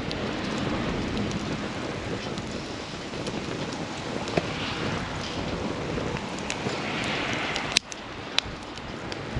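Wood campfire burning with a steady rushing hiss and a few sharp crackling pops, the loudest near the end.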